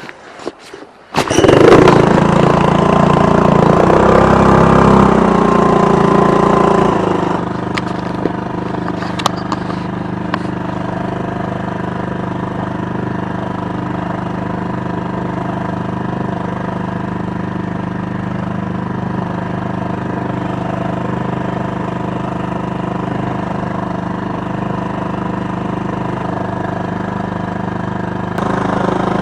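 Honda BF2 two-horsepower four-stroke outboard motor starting: it catches suddenly about a second in and runs fast and loud for several seconds, then settles about seven seconds in to a steady idle.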